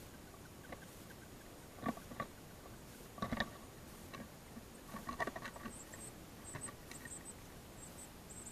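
Soft rustling and scattered knocks of handling, loudest about two and three seconds in. Faint, high, short bird chirps come in small groups in the second half.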